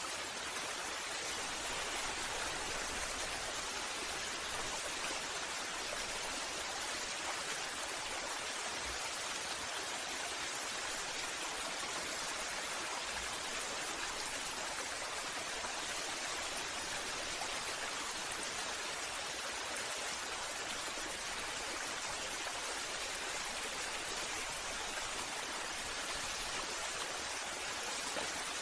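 Waterfall: steady rushing of falling water, unbroken and even in level throughout.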